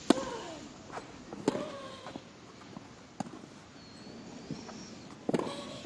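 Tennis rally: racquets striking the ball in a sharp crack about every one and a half seconds, with a player's short grunt on several of the shots.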